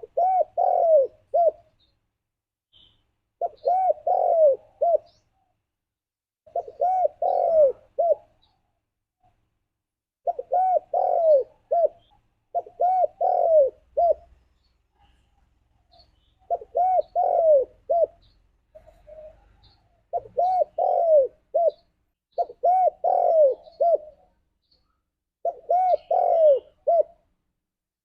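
Spotted dove (tekukur) cooing its song over and over, each phrase a quick run of four or five arching coos ending in a short clipped note, repeated about every three seconds.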